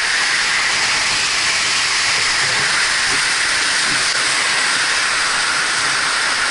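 Water-slide water rushing, a loud, steady hiss.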